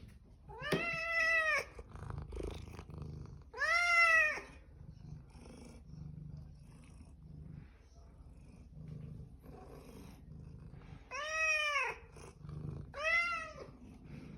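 Domestic cat meowing four times, in two pairs with a long gap between, each meow rising then falling in pitch. A faint low purr runs between the calls.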